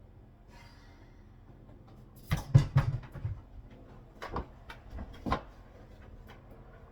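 Kitchen dishes and cupboard being handled: a loud cluster of knocks and clatters a little over two seconds in, then two single sharp knocks about a second apart.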